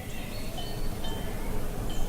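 Outdoor countryside ambience: wind rumbling steadily, with a scatter of short, high, clear notes.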